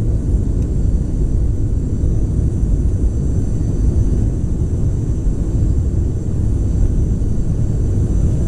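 Aircraft cabin noise inside a Boeing 717-200: a loud, steady low rumble with a faint, steady high whine from its rear-mounted Rolls-Royce BR715 turbofan engines.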